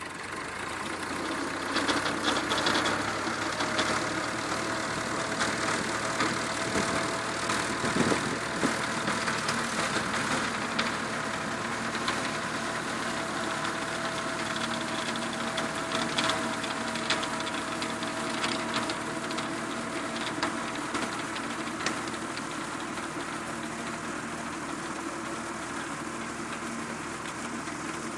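Tractor engine running with a steady note, with many sharp clicks and rattles on top; it grows louder about two seconds in.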